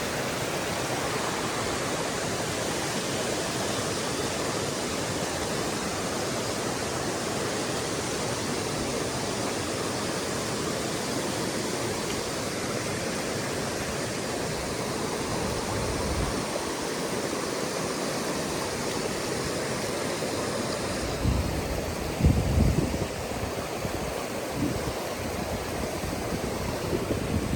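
A creek's water flowing steadily, with a few low bumps about three-quarters of the way through.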